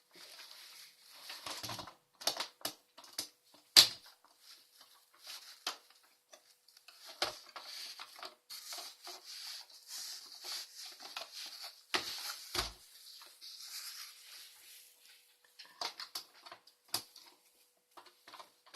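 Plastic toy pieces being handled: irregular clicks, taps and clattering, with light scraping between them and one sharper knock about four seconds in.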